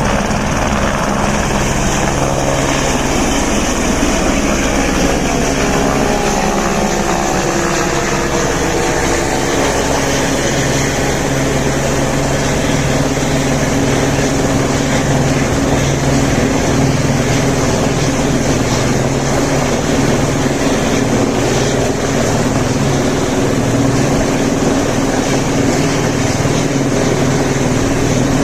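Helicopter engine and rotor running in flight, a loud steady drone whose tones shift in pitch during the first ten seconds or so and then hold steady.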